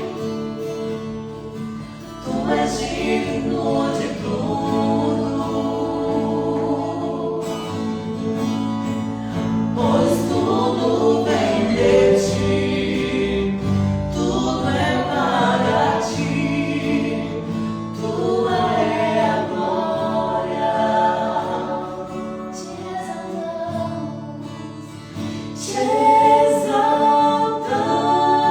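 Gospel worship song: voices singing together over held chords of instrumental backing.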